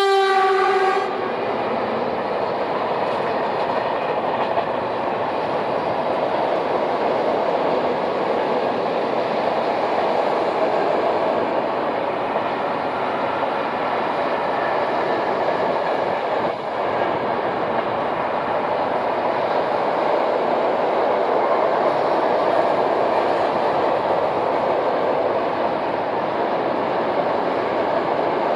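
Horn of a PKP Cargo Dragon 2 electric freight locomotive sounding and cutting off about a second in, followed by the steady rolling noise of the passing freight train on the rails.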